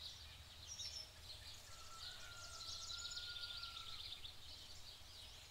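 Faint ambience of small birds chirping in quick, high notes over a low steady rumble, with a thin steady whistle-like tone lasting about two seconds in the middle.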